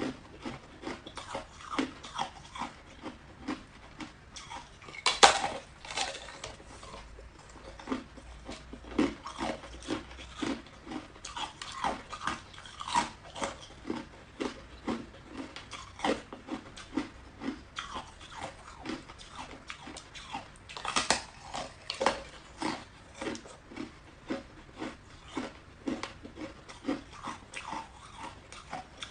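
Close-up biting and chewing of hard ice: sharp crunches about twice a second, with loud bites about five seconds in and again near twenty-one seconds.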